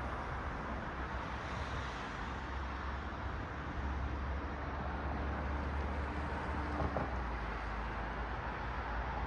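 Road traffic passing on a city street: a steady wash of tyre and engine noise with a deep low rumble.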